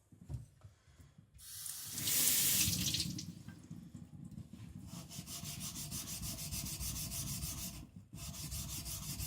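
A brief hiss of water on a whetstone, then a kiridashi's blade rubbing back and forth on the wet waterstone in steady strokes, pausing briefly near the end.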